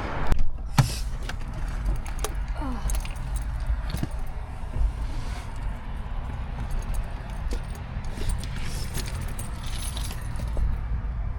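Keys jangling, with scattered sharp clicks over a steady low rumble.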